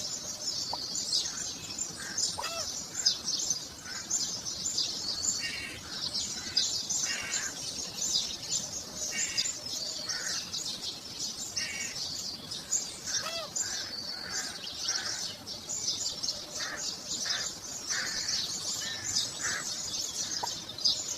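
Many small birds chirping and twittering without pause: a dense chorus of high chirps with shorter, lower calls scattered through it.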